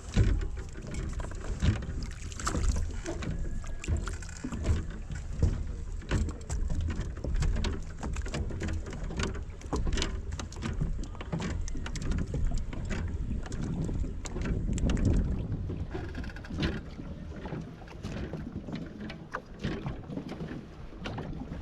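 Sounds of a kayak on the water: low wind rumble on the microphone, with irregular knocks and splashes.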